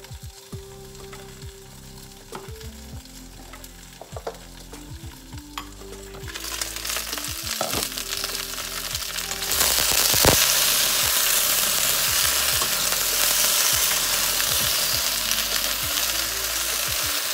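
Okra frying in oil in a pot: a faint sizzle under the lid that swells into loud, steady sizzling partway through once the pot is uncovered, with a knock about ten seconds in and spoon stirring near the end.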